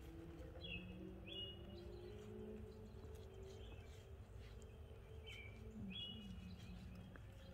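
Quiet outdoor ambience: a bird calling in short high chirps, one pair about a second in and another pair near the end, over a faint low hum.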